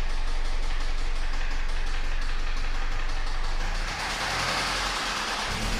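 2005 Toyota Corolla XLi engine running with a rapid, uneven knocking noise that rises and falls. The cause is a connecting-rod bearing shell left out when the engine was rebuilt, so the rod knocks on the crankshaft.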